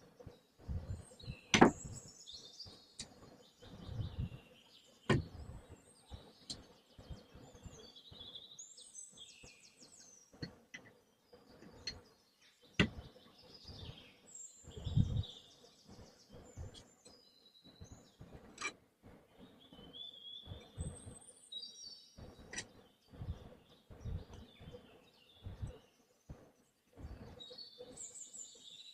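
Birds chirping repeatedly, with scattered sharp knocks and clicks throughout, the loudest about two seconds in, and a few dull thuds.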